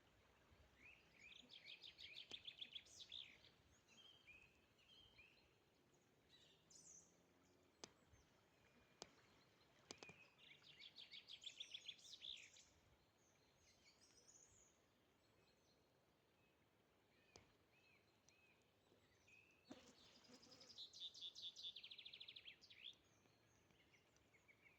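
A songbird singing the same short, fast run of notes three times, about ten seconds apart, each phrase lasting about two seconds.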